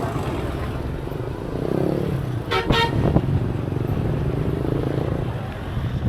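Steady rumble of road traffic with vehicles swelling past, and a short car horn toot about two and a half seconds in.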